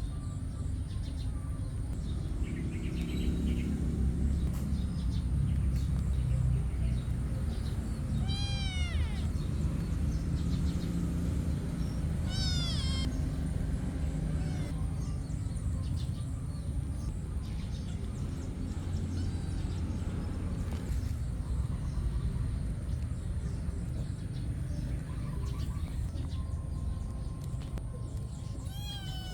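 Cats meowing: short calls about 8 seconds in, again about 12 seconds in and once more at the end, over a steady low rumble.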